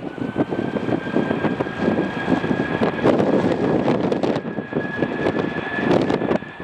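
Jet airliner engines whining, the pitch rising at the start and then holding steady, with heavy gusty wind buffeting the microphone.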